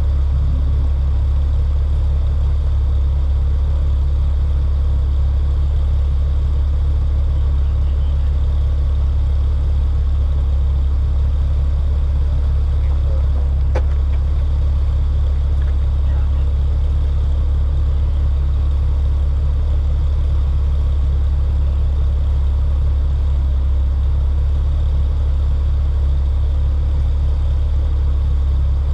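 Hyundai Elantra N's turbocharged four-cylinder engine heard from inside the cabin as a loud, steady low drone, held at one unchanging note with no revving or gear changes. A single faint click sounds about halfway through.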